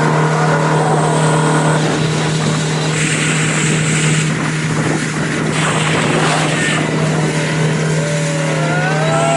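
Motorboat engine running at a steady, unchanging drone, with a rushing noise over it.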